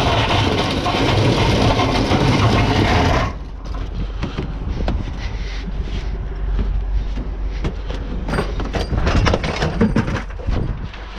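Wind buffeting the microphone as a loud, even rush that cuts off abruptly about three seconds in. After that come scattered light clicks and knocks over a low steady rumble.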